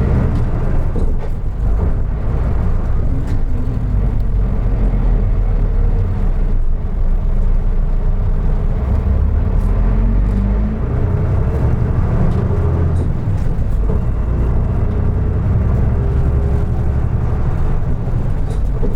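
Engine of a 2003 Isuzu Erga Mio (KK-LR233J1) city bus running under way, a steady low drone whose pitch rises and falls a few times as the bus pulls and shifts.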